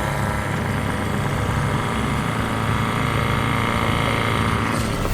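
Outboard motor running steadily at trolling speed, a low even drone with no change in pitch.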